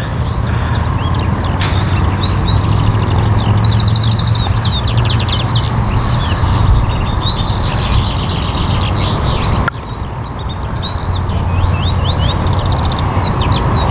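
Several small birds chirping and singing, with quick rising and falling notes and fast trills, over a steady low rumble.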